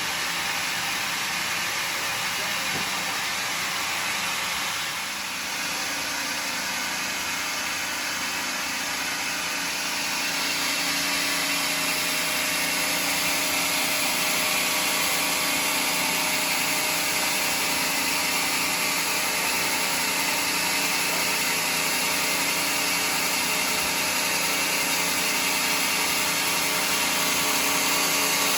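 Sawmill running steadily, plausibly sawing mahogany. The sound dips briefly about five seconds in and gets a little louder about ten seconds in.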